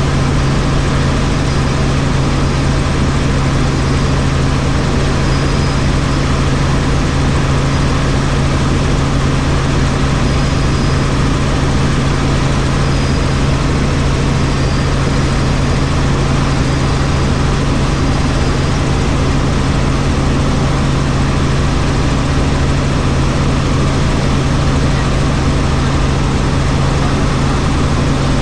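Helicopter running steadily in flight: an even, loud drone with a strong low hum that does not change.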